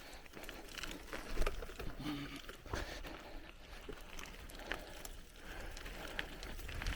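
Bicycle tyres rolling over a forest dirt track, with many small clicks and rattles from the bike and a low rumble throughout.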